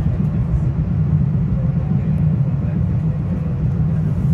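Metro-North commuter train running, heard from on board: a steady low rumble with no distinct events.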